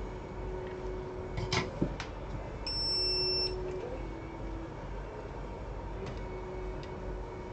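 A single electronic beep, steady in pitch and lasting a little under a second, preceded by a couple of sharp clicks, over a low steady hum.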